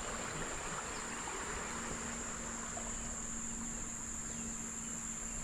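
Steady chorus of insects: one even, high-pitched drone that holds without a break, over a soft hiss from the flowing creek.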